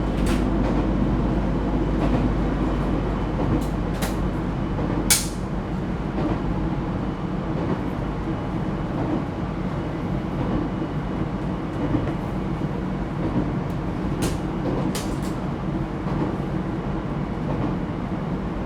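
Onboard running noise of an ET127 series electric multiple unit (Toyo GTO-VVVF) travelling along the line: a steady rumble of wheels on rail, with a few sharp clicks scattered through it.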